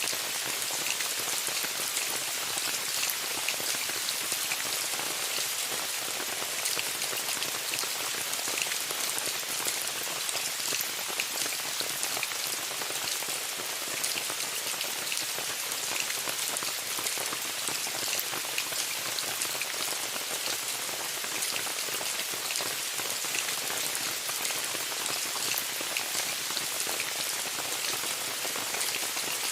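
Steady rain pattering on a tent, a dense even hiss with many individual drop taps.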